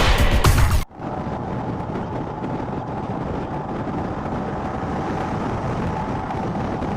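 Background music cuts off abruptly about a second in. Steady riding noise follows: wind on the microphone over the steady running of a Royal Enfield Himalayan single-cylinder motorcycle.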